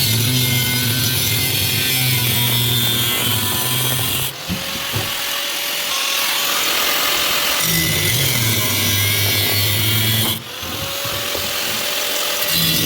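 A metalworking tool running with a continuous harsh noise over a low hum, the noise dropping out briefly about four seconds in and again near ten seconds before resuming.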